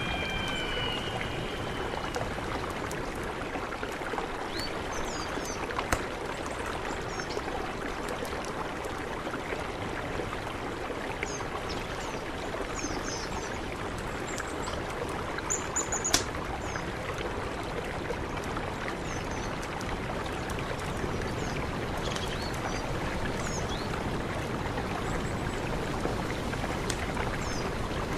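Mountain river rushing steadily, with a few short high chirps scattered through and a couple of sharp clicks.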